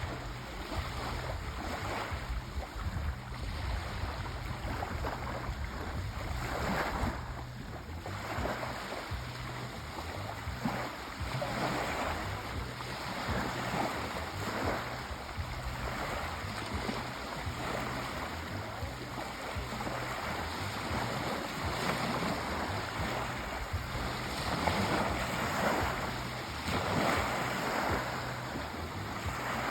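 Sea waves washing ashore: a continuous rush of surf that swells and eases every few seconds.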